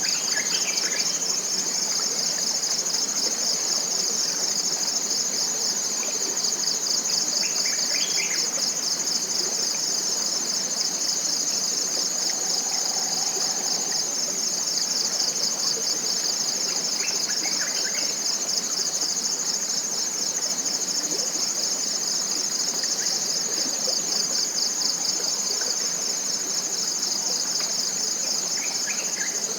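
Dense chorus of forest insects trilling steadily, a high-pitched, finely pulsing drone that never lets up, with a few short bird calls scattered through it.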